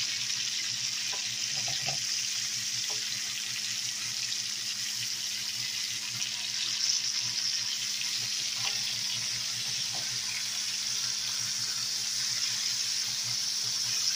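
Deer burger patties sizzling steadily in a cast-iron skillet, with a few faint taps and scrapes of a wooden spatula as they are turned.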